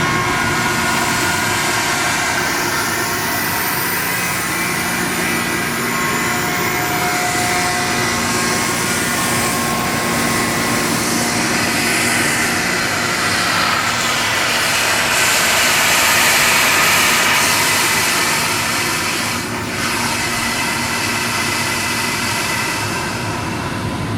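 Quincy 60 hp rotary screw air compressor running: a loud, steady drone with hiss and several whining tones. It swells slightly about two-thirds of the way in and dips briefly near the end.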